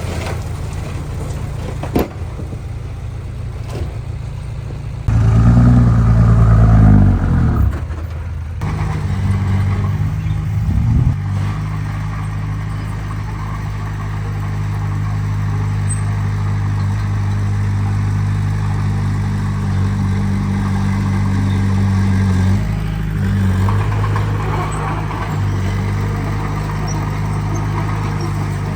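Heavy-equipment diesel engine running steadily with a low, even note. About five seconds in there is a louder stretch where the engine revs and then falls away, and the note shifts again a few times later on.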